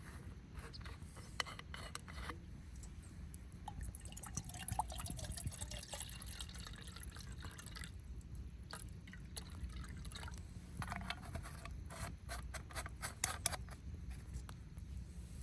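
Liquid being poured into a container, its faint pitch rising slightly as it fills, followed by a few light clicks and knocks.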